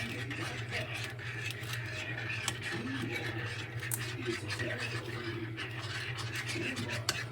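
A spoon stirring and scraping through thick, sticky slime mix of glue and contact solution in a bowl, with scattered small clicks of the spoon against the bowl. A steady low hum runs underneath.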